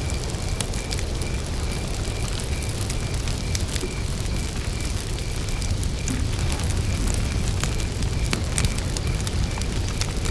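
Wood campfire burning, with a steady low rumble and frequent sharp crackles and pops. A cricket chirps in an even rhythm, about three chirps a second, all the way through.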